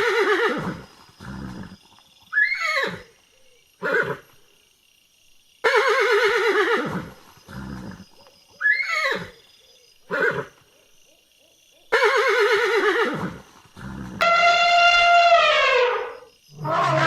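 Horse whinnying: a string of quavering neighs that drop in pitch, with shorter calls between them, repeating about every six seconds. Near the end comes a longer, smoother call that slides down in pitch.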